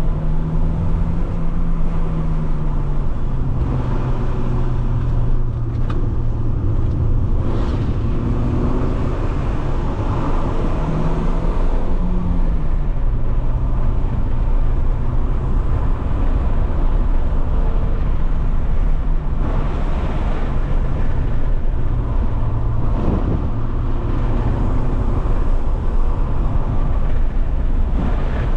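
Alfa Romeo 156 1.8 Twin Spark four-cylinder engine running while driving, over steady road noise. Its note steps up and then drops back near the start, and again about eleven to thirteen seconds in.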